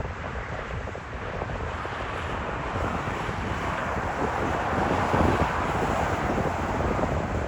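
Jet airliner passing, its engine rush growing louder to a peak about five seconds in and then easing slightly, with wind buffeting the microphone.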